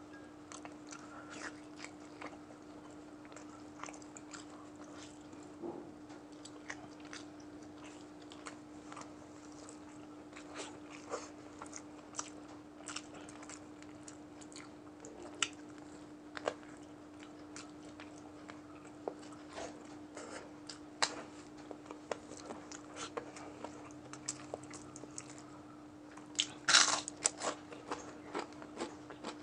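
Close-miked eating sounds of a person chewing fried and boiled chicken with rice: wet chewing and scattered crisp crunches, with a louder run of crunching near the end as the crispy fried chicken neck is bitten. A steady low hum runs underneath.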